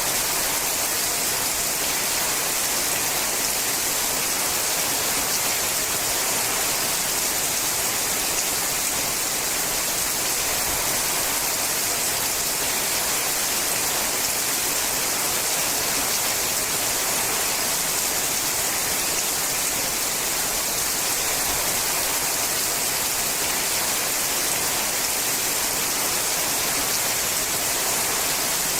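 Steady rain falling on a sheet-metal roof, an even hiss with no separate drops standing out.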